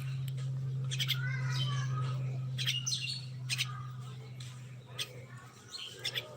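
Common mynas calling: a run of short, sharp clicking and chattering notes mixed with warbled whistles, over a steady low hum that fades out near the end.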